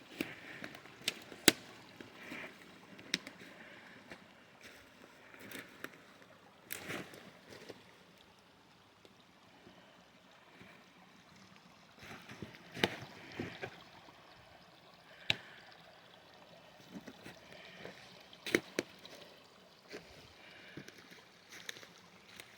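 Water trickling and flowing in a shallow inlet, a faint steady wash, broken by scattered sharp clicks and knocks.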